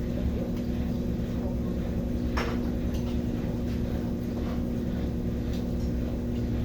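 Brastemp BWK17 17 kg washing machine in its spin cycle, running with a steady motor hum and a constant tone. A brief click or knock comes about two and a half seconds in.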